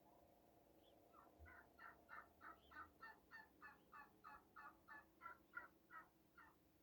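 Domestic fowl calling, faint: an even run of short repeated calls, about three a second, that starts about a second in and stops shortly before the end.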